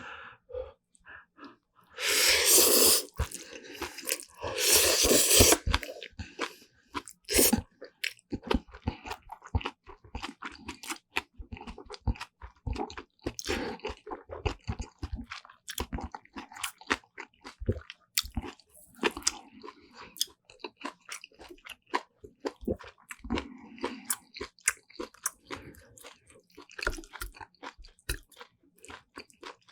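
Close-miked eating of Jjapagetti black bean noodles and side dishes: steady wet chewing and crunching, with two loud, noisy bursts of about a second each, around two and four seconds in.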